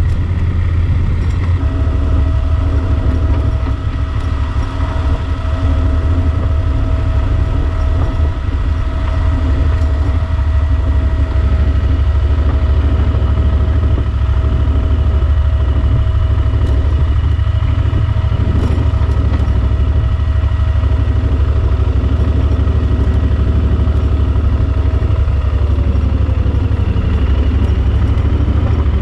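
Yamaha Super Ténéré XT1200Z's parallel-twin engine running steadily while riding, with a loud, constant low drone. Near the end a higher whine in the sound drops in pitch as the engine speed falls.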